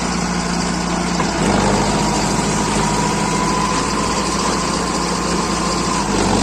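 Mahindra Arjun Novo 605 4WD tractor's diesel engine running steadily, picking up slightly in level about a second and a half in, with a faint whine that rises a little before dropping away near the end.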